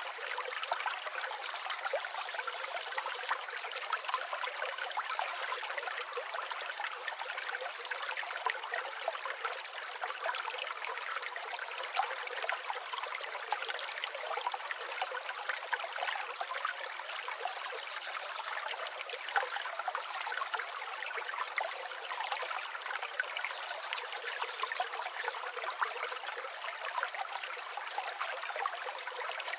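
River water flowing and babbling steadily over stones, a bright splashing rush with no low rumble.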